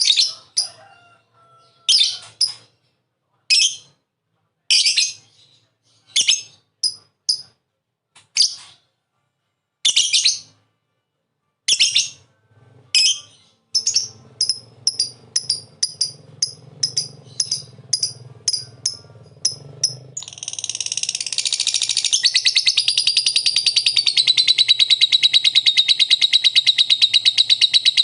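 Lovebird calling in short, separate shrill chirps, then about two-thirds of the way in breaking into a long, unbroken rapid chatter: the lovebird's 'ngekek' song.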